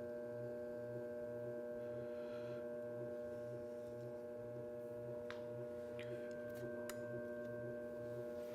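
Electric potter's wheel running with a steady hum and a low pulse about twice a second. A few faint clicks come in the second half.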